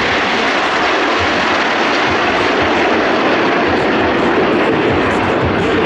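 Airplane engine noise, loud and steady, with no clear pitch.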